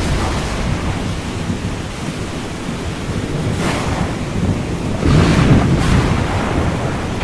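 Ocean waves breaking and washing in a continuous surf, with a heavier wave surging about five seconds in. A low storm rumble runs beneath.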